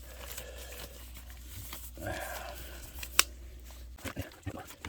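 Rustling and crinkling as fiberglass muffler packing is handled by gloved hands, with one sharp click about three seconds in and a few small knocks near the end.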